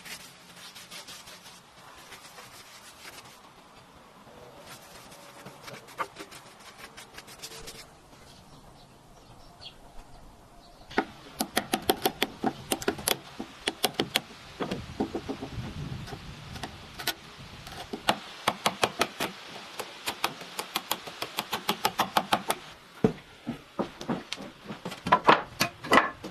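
Hand tools working wood: repeated scraping and knocking strokes, faint at first, then a quick, loud run of several strokes a second starting about eleven seconds in.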